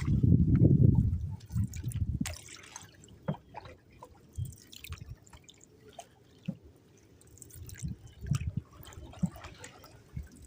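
Canoe paddle strokes in canal water: small splashes and water dripping off the paddle, with the odd light knock. A low rumble is loudest in the first couple of seconds.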